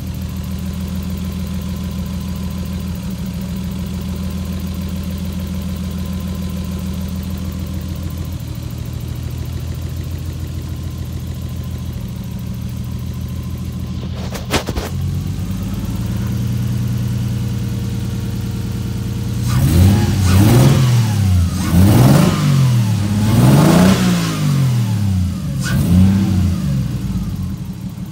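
Nissan RB20 turbocharged straight-six idling steadily, then blipped four times near the end, each rev rising and falling back before it settles to idle again. A single sharp knock about fourteen seconds in.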